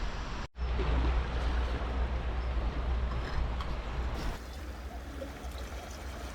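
Seaside ambience: the wash of the sea under wind rumbling on the microphone. The sound cuts out for an instant about half a second in, and the wind rumble drops lower about four seconds in.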